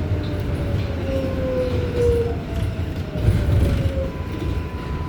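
R188 subway car's traction motors whining down in pitch over a low rumble as the 7 train brakes into the station. A steady higher tone starts about four seconds in.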